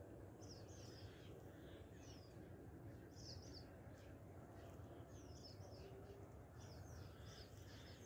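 Faint, short, high bird chirps that drop in pitch, coming in small clusters every second or two over a low steady outdoor background noise.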